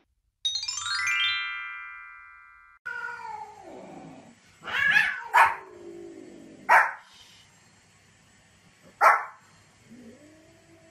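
A short descending chime run first. Then a small white spitz-type dog barks sharply about four times while a cat meows in long, wavering calls.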